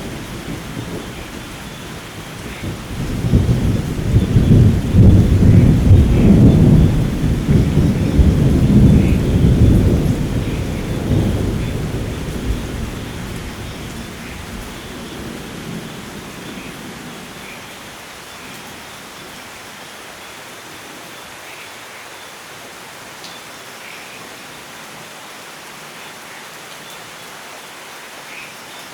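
A long rolling thunderclap over steady rain: the rumble builds about three seconds in, peaks for several seconds, and dies away over the next several, leaving the even hiss of rain falling.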